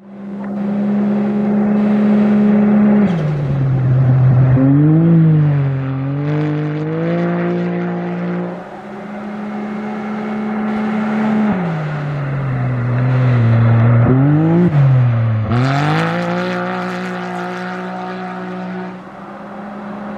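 Rally-raid race vehicle engines running hard at high revs: a held engine note that twice drops sharply in pitch as a vehicle passes, with revs rising and wavering as they accelerate in between.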